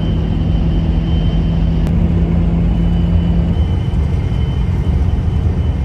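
Steady rumble of a moving road vehicle, with an engine hum that drops away about three and a half seconds in.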